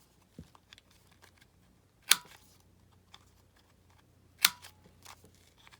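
Corner rounder punch snapping through card stock as the corners of a card are rounded one after another: two sharp clicks about two and a half seconds apart, each with a brief metallic ring, and faint handling ticks between.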